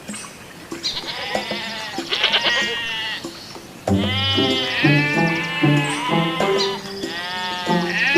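Goats bleating, several long quavering bleats one after another, over light background music.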